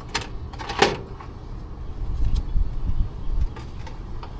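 Two sharp clicks about a second apart as a new run capacitor is strapped and secured in an air conditioner condenser's electrical compartment, followed by low rumbling handling noise.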